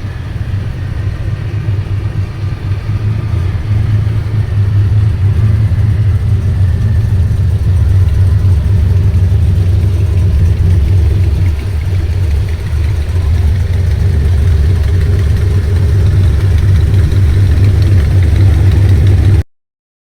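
Old Nissan Skyline with a loud, open exhaust running steadily at low revs: a deep, even drone that grows louder over the first few seconds, then holds. It cuts off abruptly near the end.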